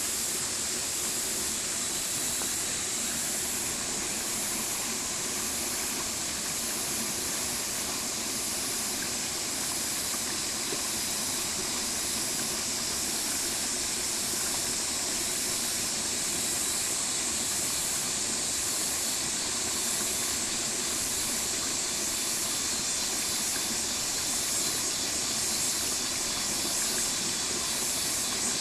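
Stream water flowing steadily, an even rushing sound that does not change.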